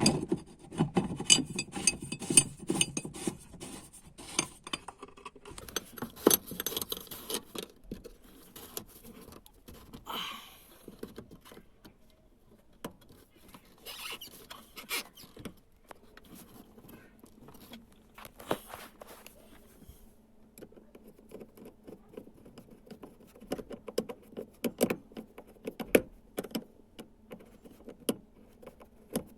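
Scattered metallic clicks, clinks and knocks of hands and tools tightening the replacement fuel pump assembly into the fuel tank and fitting its hose and wiring.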